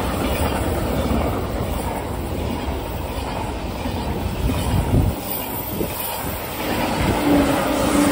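A train passing on the tracks: a steady rolling rumble, with a low thud about five seconds in.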